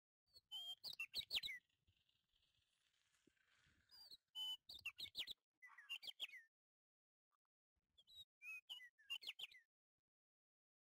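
A bird chirping in three bursts of quick chirps, each sweeping down in pitch, with quiet gaps between the bursts.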